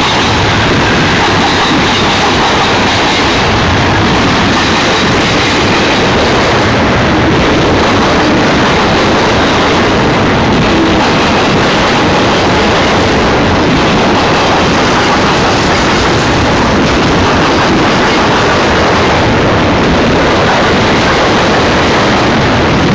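Union Pacific freight train cars rolling past close by: a loud, steady noise of steel wheels on rail.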